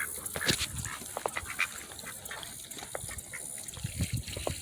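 Ducks and geese eating and drinking from water and feed, with irregular quick clicks and splashes from their bills and a few brief soft calls.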